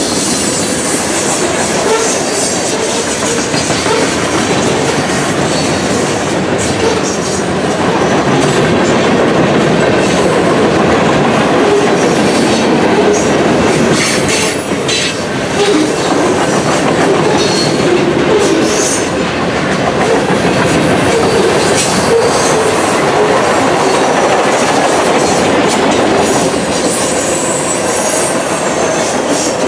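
Mixed freight cars of a manifest train rolling past at speed: a steady rumble of steel wheels on rail with clickety-clack over the rail joints. Short high-pitched wheel squeals come and go.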